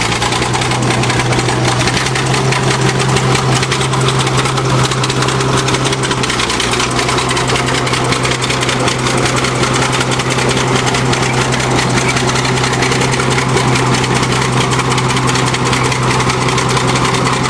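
Bulldozer's diesel engine running steadily under load, with a fast, even clatter.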